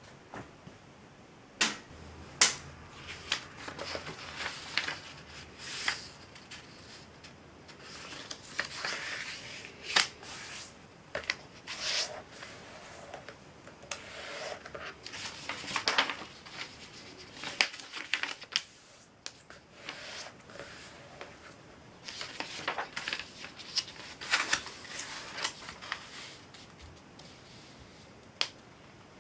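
A sheet of paper being folded and creased by hand: irregular rustling and sliding, broken by sharp crisp snaps as creases are pressed.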